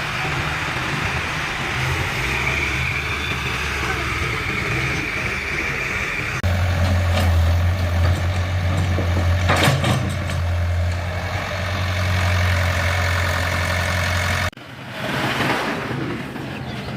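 Tractor engines running steadily at idle; the sound changes abruptly twice, about six and a half and fourteen and a half seconds in.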